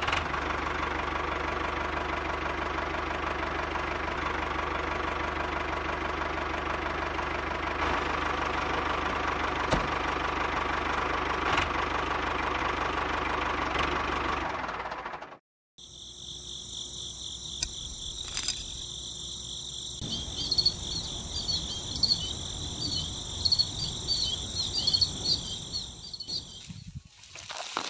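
Small motor of a homemade miniature tractor running steadily as it drives, cutting off abruptly about halfway. Then a steady high insect chirring with scattered small clicks.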